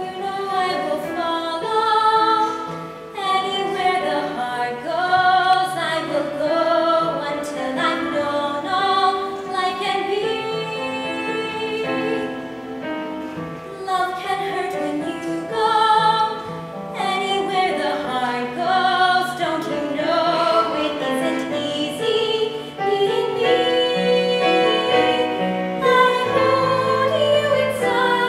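A young woman singing a slow solo ballad with vibrato, over instrumental accompaniment.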